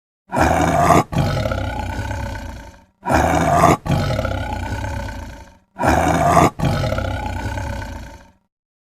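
A large animal's call, the same recording played three times. Each call lasts about two and a half seconds: a short loud opening, a brief break, then a longer call that fades away.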